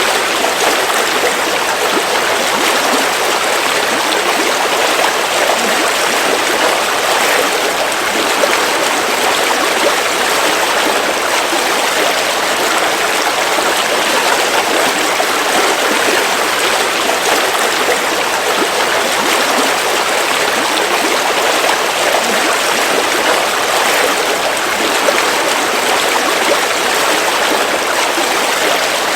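River water flowing and splashing steadily over stones, an even rushing without breaks.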